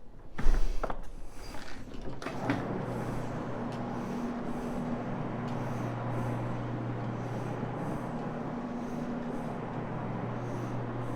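A few knocks and thumps as a carpet-cleaning floor machine is handled. About two and a half seconds in, its motor starts and runs with a steady hum, scrubbing the carpet with a cleaning pad.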